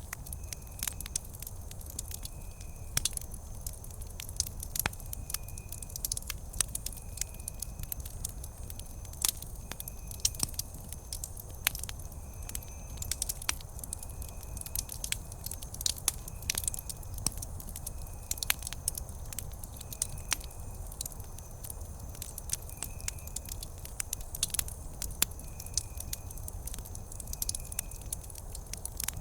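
Wood campfire crackling, with frequent sharp pops and snaps over a low steady rumble. A faint, short high chirp repeats every second or two.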